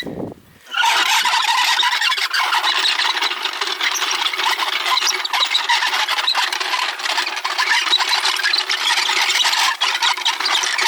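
A 3.5-ton floor jack being rolled over the ground, its wheels squealing and rattling without a break.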